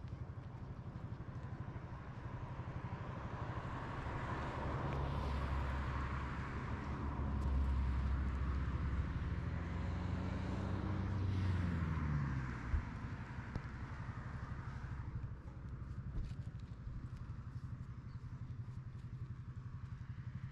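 A motor vehicle's engine running steadily. A louder engine sound builds over several seconds and falls in pitch about twelve seconds in, then a single knock.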